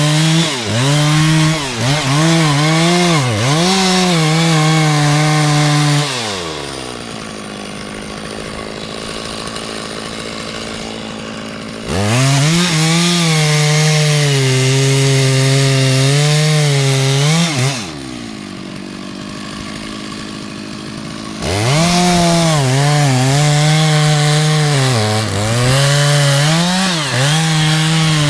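Two-stroke chainsaw cutting wood at full throttle, its pitch dipping as the chain bites under load. It drops back to idle about six seconds in and again near eighteen seconds, then revs back up into the cut each time.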